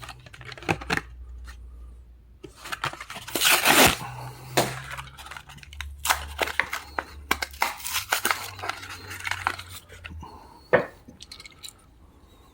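Matchbox die-cast car's card-and-plastic blister package being torn open by hand: irregular tearing and crinkling with sharp clicks, the loudest rip about four seconds in.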